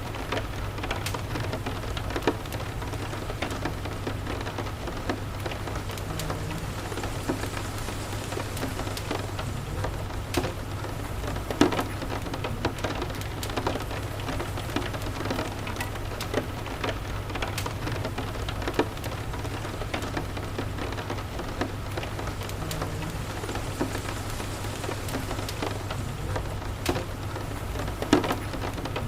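Steady rain falling, with a constant low rumble underneath and a wood fire crackling in scattered sharp pops, two louder pops about 11 and 28 seconds in.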